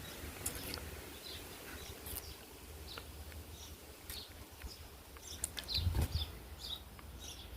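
Birds chirping on and off, short high chirps, over a low rumble that swells briefly about six seconds in, with a few sharp clicks.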